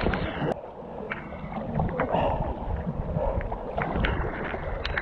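River water rushing and splashing around a kayak being paddled down a river in high flow, with a few sharp knocks and wind buffeting the microphone.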